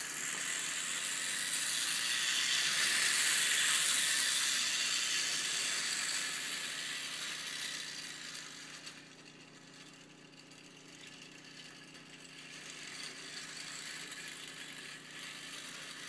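1930s Bing clockwork tinplate train running on its wound spring with one car removed: a steady whirring rattle of the spring motor and wheels on the track, loud at first, dropping off about halfway and rising a little again near the end.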